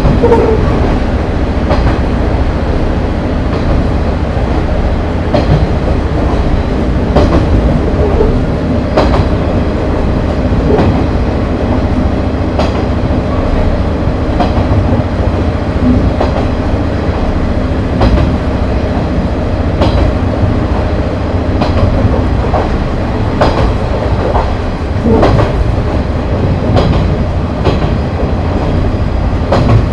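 Running sound inside a JNR KiHa 30 diesel railcar (KiHa 30-98): the underfloor DMH17 diesel engines run steadily under the rumble of the wheels, with wheels knocking over rail joints at irregular intervals.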